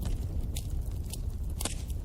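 Bonfire burning: a steady low rumble of flames with sharp crackles and pops of burning wood, about five in two seconds, the loudest near the end.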